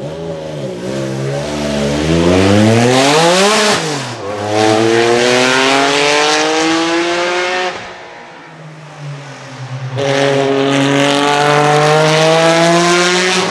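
Singer DLS Turbo's straight-piped 700-hp twin-turbo 3.8-litre flat-six pulling away from a standstill under hard acceleration. Its pitch climbs steeply, breaks for an upshift about four seconds in and climbs again, then falls back off the throttle around eight seconds. About ten seconds in it comes on hard again, rising to the end.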